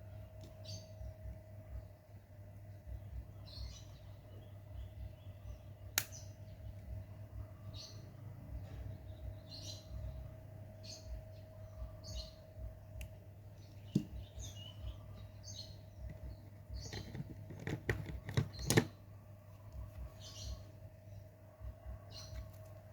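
A bird chirping in short high notes about once a second over a steady low hum, with a few sharp clicks and a quick run of clicks a little past the middle.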